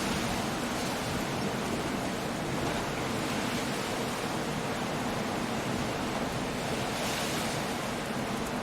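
Storm surf breaking on a rocky coast with wind, a steady wash of noise that swells slightly about seven seconds in.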